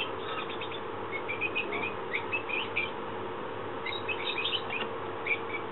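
Small birds chirping in short, high calls scattered throughout, over a steady faint hum.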